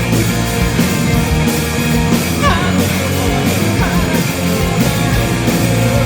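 Live rock band playing a song, with drum kit, bass and electric guitar.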